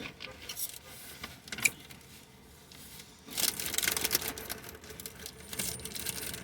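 Handling noises: scattered sharp clicks, one louder about a second and a half in, and a stretch of crackly rustling about halfway through, as of things being moved and wrappers handled.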